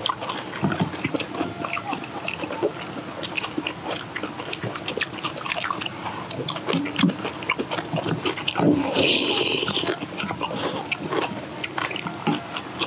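Close-up chewing and crunching of kimchi and rice, with irregular wet clicks and smacks of mouths eating. A brief hiss comes about nine seconds in.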